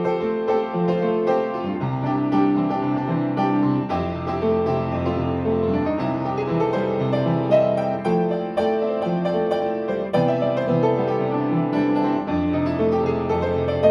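Solo piano playing, with held bass notes changing every couple of seconds under chords and a melody line.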